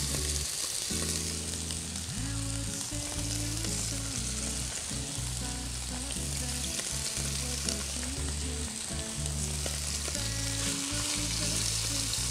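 Chicken breasts coated in olive oil and basil sizzling steadily in a frying pan. Low background music plays underneath.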